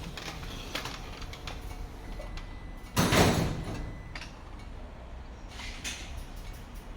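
A short, noisy mechanical burst about three seconds in, lasting about half a second, with faint clicks and handling sounds around it.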